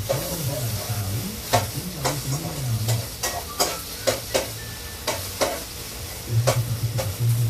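Tofu sizzling as it fries in a pan, with a utensil scraping and clicking against the pan over and over as the pieces are checked and turned.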